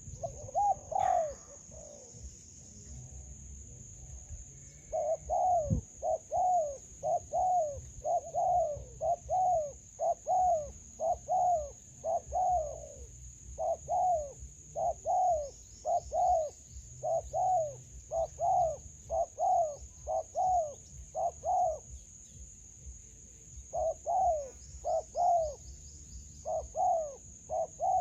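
Spotted dove cooing over and over, a long run of low, hooting coos in quick groups, breaking off a little after twenty seconds and starting again shortly after.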